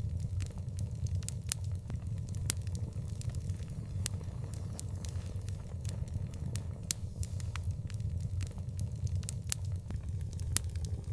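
Outdoor wood fire crackling, with frequent irregular sharp pops and snaps over a steady low rumble.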